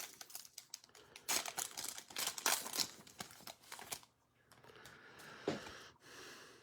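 Trading-card pack wrapper crinkling and tearing as the pack is opened and the cards handled, in a run of quick crackles that stops about four seconds in. A single soft knock follows about a second and a half later.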